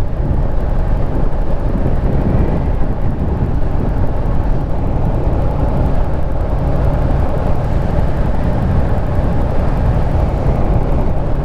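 Harley-Davidson Street Rod 750 motorcycle under way: a steady rush of wind on the microphone over the bike's running noise, even throughout.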